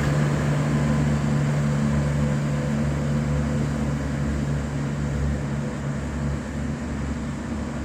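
Diesel railcar engines running with a steady low hum and rumble, easing slightly after about six seconds.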